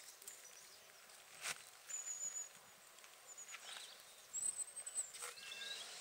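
Faint high-pitched songbird calls: thin whistled notes several times, then a short trill near the end. Two sharp clicks fall between them.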